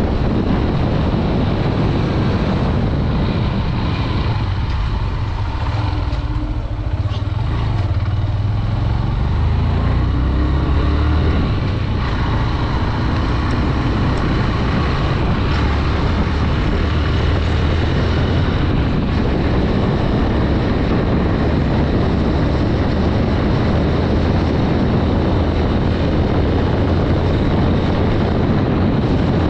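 Honda Dream 110's single-cylinder four-stroke engine running steadily while riding along a road.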